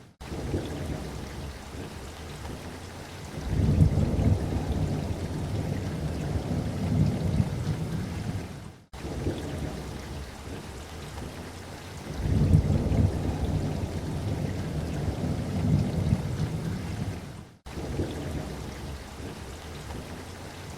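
Steady light rain with low rolling thunder that swells and fades twice, each rumble lasting about five seconds. The sound cuts out for an instant three times, about every nine seconds.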